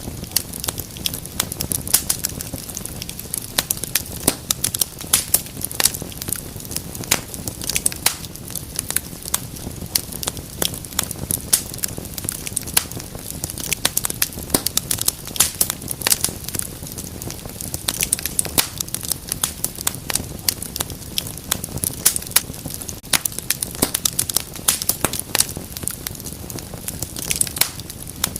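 Wood fire burning in a fireplace, crackling with many sharp, irregular pops and snaps over a low steady rumble of flames.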